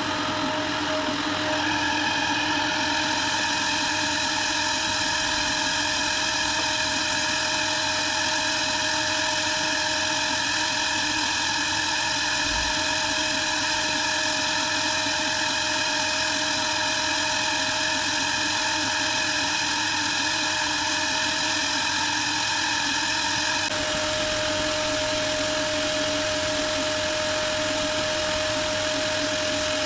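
Power sander running steadily as it sands down cured body filler on a car's front wing, a constant machine whine whose tone shifts slightly about a second and a half in and again near the end as the load on it changes.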